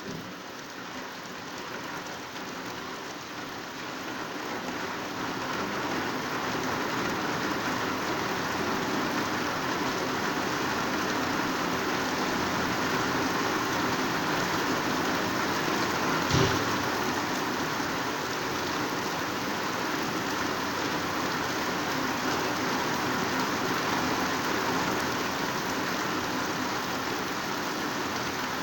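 Heavy downpour: a dense, steady hiss of rain on leaves and foliage that fades in over the first few seconds. A single sharp tap about halfway through stands out above the rain.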